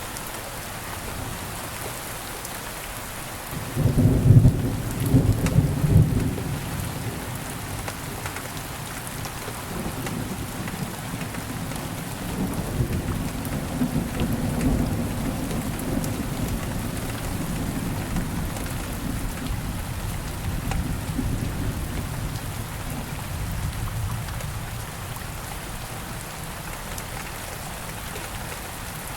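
Steady rain falling, with a loud crack of thunder about four seconds in and a long low rumble of thunder that rolls on and fades away near the end.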